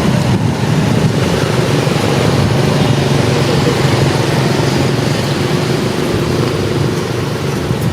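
Steady low rumble of road traffic, an engine running without letting up.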